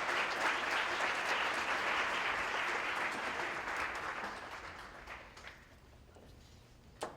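Audience applauding, the clapping dying away over the first five seconds or so, followed by a single sharp knock near the end.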